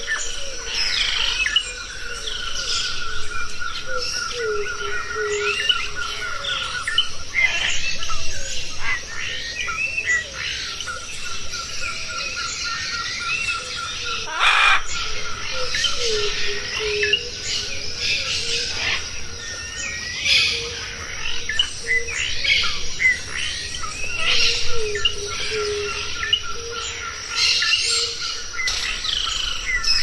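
A chorus of wild birds chirping and calling over one another, with a steady rapid trill underneath and lower whistled notes. There is one sharp click about halfway through.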